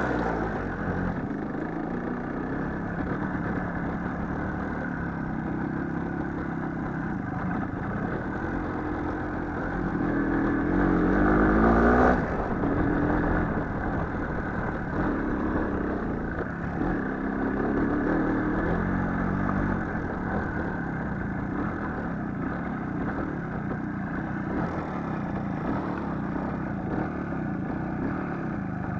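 Small motorcycle engine running on the move, its revs rising and falling; about ten seconds in it revs up sharply to its loudest point, then drops back abruptly a couple of seconds later.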